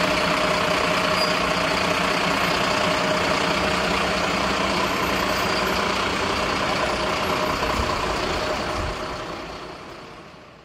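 Large truck engine idling steadily with a constant drone and low rumble, fading out over the last couple of seconds.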